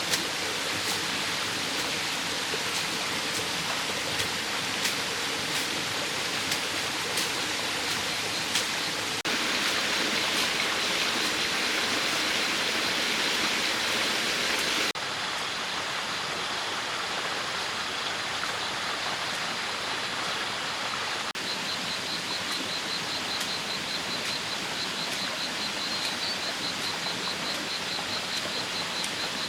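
Steady rushing noise with scattered sharp clicks in the first third and a rapid, high-pitched pulsing trill through much of the second half; the sound changes abruptly several times, as at cuts.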